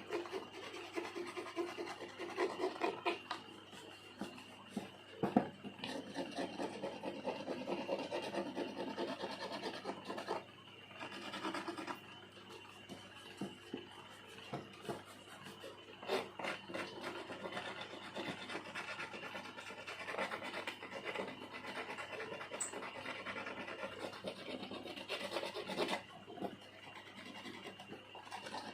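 Bamboo being carved by hand with a small blade, in many short, irregular scraping strokes with small clicks.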